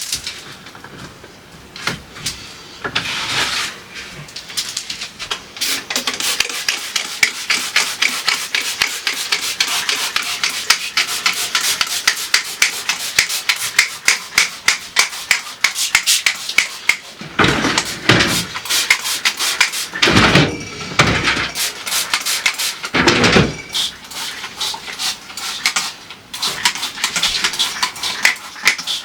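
Rhythmic scrubbing of refrigerator surfaces after spraying them down, about four rubbing strokes a second. A few heavier knocks and bumps come around the middle.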